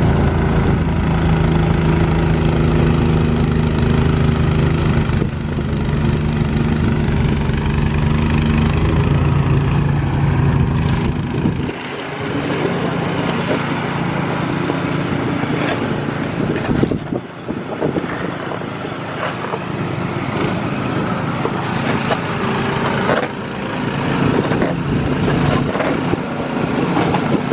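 Engine running steadily; about twelve seconds in its deep low hum drops away, leaving a lighter running sound.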